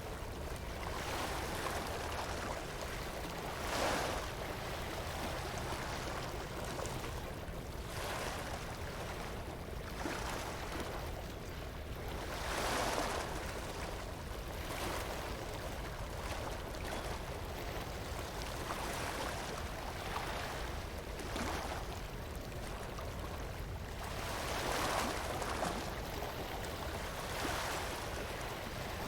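Ocean waves breaking and washing up a beach, swelling and fading every few seconds, over a steady low rumble.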